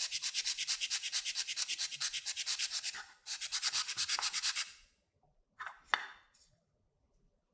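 Hand sanding of a part: rapid back-and-forth rubbing strokes, about seven a second. They break off briefly about three seconds in, resume, and stop just before five seconds. Two sharp clicks follow about a second later.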